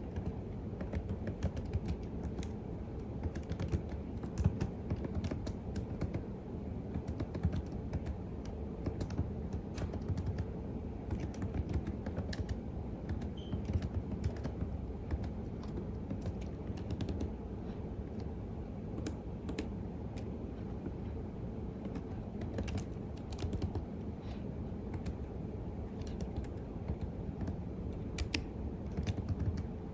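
Continuous typing on a computer keyboard: a steady, unbroken stream of key clicks.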